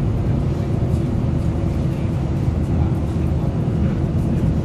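Volvo B7RLE single-deck bus running under way, heard from inside the saloon: a steady low diesel engine and road rumble with a faint held tone above it.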